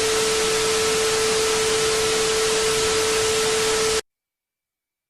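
Loud static hiss with a steady tone running through it, cutting off suddenly about four seconds in.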